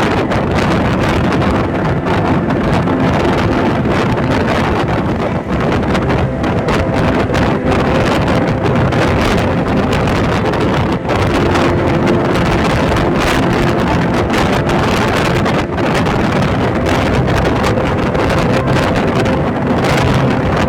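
Passenger train running at speed, heard from on board: a steady, loud rumble of wheels on the track with wind buffeting the microphone.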